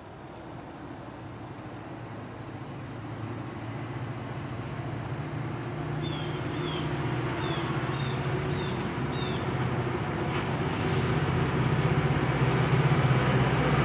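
An NJ Transit train approaching from a distance, its low engine rumble and hum growing steadily louder. Birds chirp several times in the middle.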